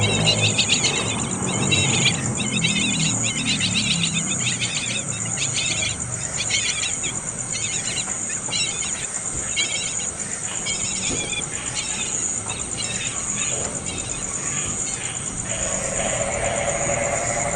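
Insects trilling steadily, with runs of rapid high chirping that come and go.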